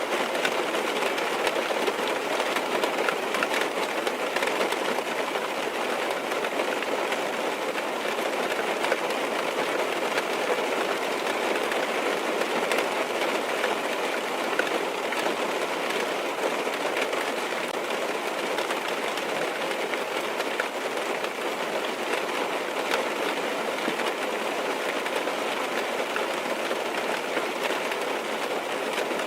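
Steady rain tapping on a car's windows, heard from inside the car, as a dense, even patter of small drop ticks.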